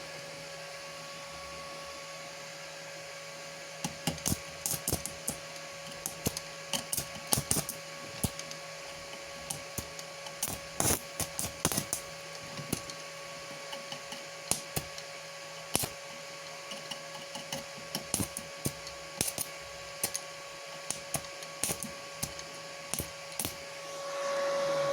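Welding inverter humming steadily, with irregular sharp crackles of a welding arc from about four seconds in, as the repaired machine is tried out at medium current.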